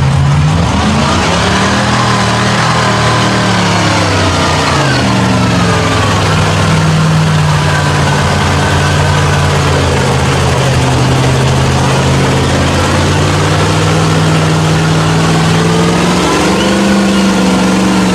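Off-road mud truck's engine revving up, easing off about four seconds in, running steadily under load, then revving up again near the end.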